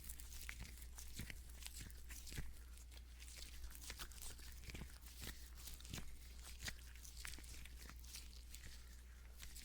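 Lotion-coated nitrile gloves rubbing together close to the microphone: irregular sticky crackles, clicks and rubbing noises. A steady low hum runs underneath.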